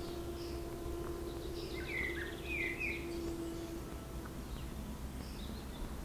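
A songbird singing: a short run of quick, bright chirped notes about two seconds in, with fainter high notes before and after. A steady low hum sits underneath and stops a little before four seconds in.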